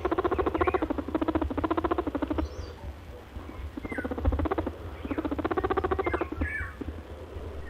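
Rabbit vocalising in runs of fast pulsed grunts, stopping and starting several times, with a few short high squeaks between.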